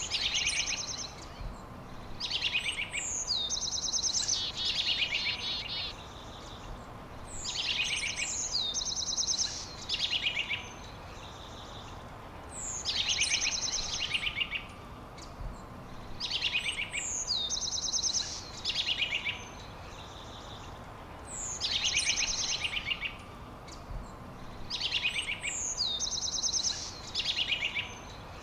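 A songbird singing the same phrase over and over, about every four to five seconds. Each phrase opens with a sharp, high falling whistle and runs into quick buzzy trills. A faint steady hum and background hiss sit underneath.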